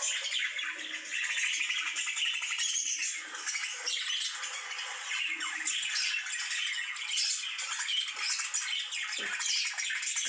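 Pet lovebirds calling without a break: a dense, high-pitched mix of many short chirps and calls.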